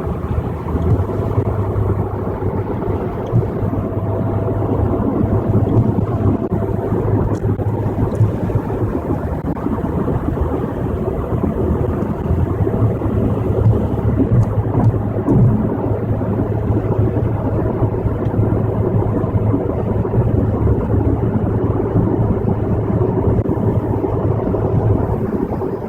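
Car driving at highway speed, heard from inside the cabin: a steady low rumble of engine and tyres on the road with an even hiss of road noise.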